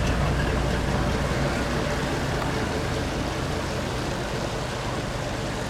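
Large truck's diesel engine running with a steady low rumble that slowly fades.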